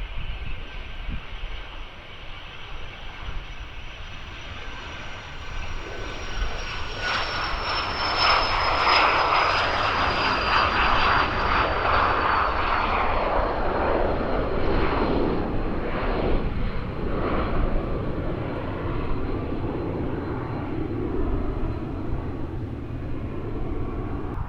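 Learjet 45 business jet taking off, the high whine of its turbofan engines sliding slowly down in pitch as it passes. The jet noise swells about seven seconds in and fades after the middle, over a low rumble of wind on the microphone.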